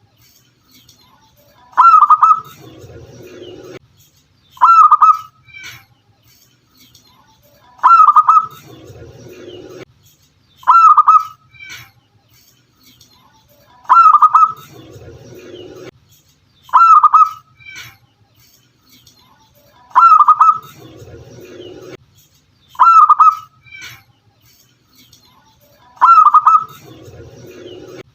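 Zebra dove (local perkutut) cooing: a short, loud call repeated at a steady rate of about one every three seconds. After every second call comes a fainter, lower sound.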